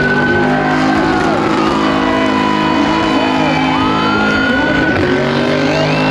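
High-powered car engine held at high revs during a burnout. Its pitch sags, then climbs again about two-thirds of the way through, over a steady wash of tyre noise.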